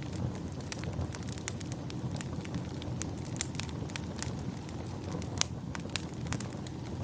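Wood fire crackling, with many irregular sharp pops and snaps over a steady low rumble; two pops a little after five and six seconds in stand out as the loudest.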